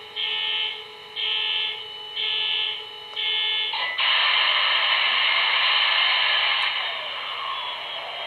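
MTH HO-scale SD70ACe model locomotive's factory sound system playing through its small onboard speaker: a steady hum with a pulsing tone repeating about once a second, then at about four seconds a loud rushing hiss over a steady drone that eases slightly near the end.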